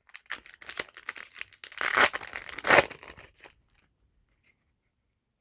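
Foil booster pack wrapper crinkling and tearing open in a run of crackly rips, loudest about two seconds in and again just before three seconds. It stops about three and a half seconds in.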